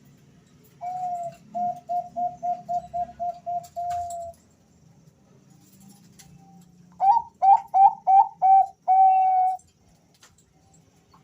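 Male zebra doves (Bangkok perkutut) cooing in two answering phrases, each a quick run of short notes ending in a longer held note. The second phrase, starting about seven seconds in, is louder.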